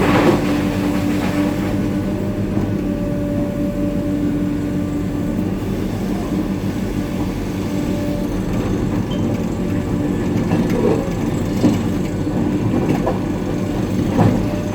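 Hitachi 890 excavator's diesel engine running steadily under load while loading shot rock, with rock knocking against steel: a sharp knock at the start and several more in the last few seconds.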